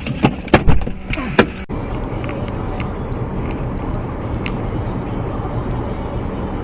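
A few sharp clicks, then an abrupt cut about a second and a half in to the steady low rumble of a car driving.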